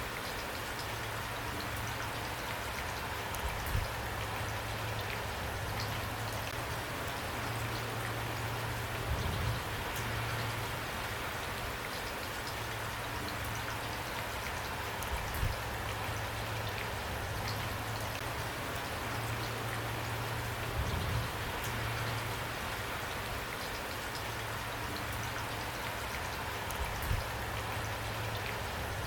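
Steady rain falling on a surface, with fine individual drop ticks over an even hiss and a low steady hum beneath. A soft low thump comes every five or six seconds.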